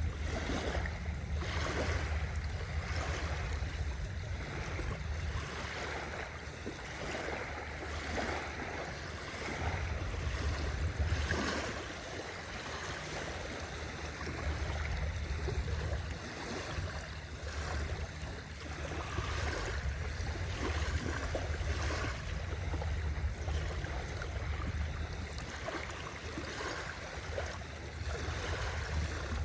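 Sea waves washing in, the surf noise rising and easing every few seconds over a steady low rumble.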